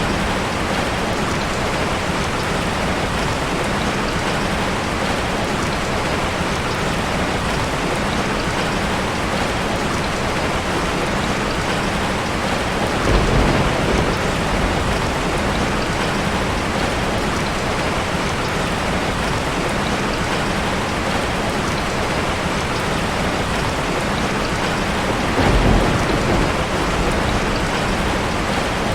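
Steady heavy rain falling, an even hiss of drops on surfaces. Twice, about halfway through and near the end, there is a brief low rumble.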